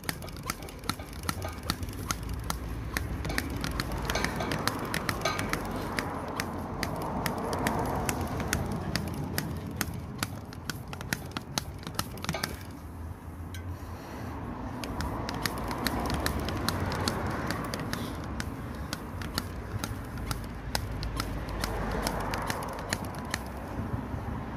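Wind rumbling on the microphone while riding a bicycle over a rough track, swelling and easing every few seconds, with a dense run of sharp clicks and crackles from the tyres and bike.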